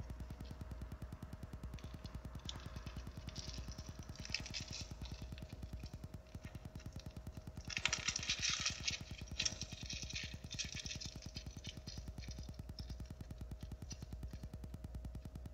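Canadian Pacific Holiday Train's lit cars rolling slowly past: a steady low rumble, with bursts of high hissing noise about three seconds in and again, louder, about eight seconds in.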